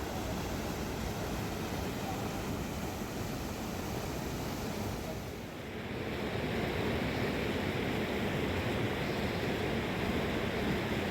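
Rushing river water, a steady noise that dips briefly about five and a half seconds in and then comes back a little louder.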